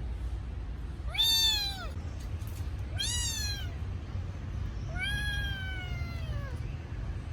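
Kitten meowing three times, high cries that fall in pitch at the end, the last one longer and drawn out: a kitten crying for its mother. A steady low hum runs underneath.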